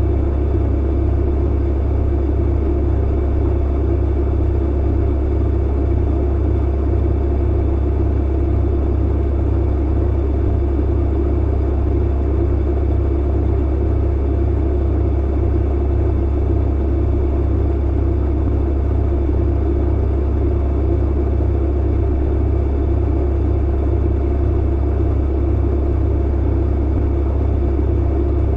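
Clothes dryer running: a steady low hum and rumble of the motor and tumbling drum, unchanging throughout.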